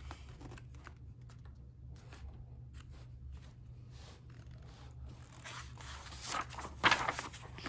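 Paper rustling and scraping over a low steady hum, with a few louder rustles between about five and seven and a half seconds in, as a page of a paperback picture book is turned.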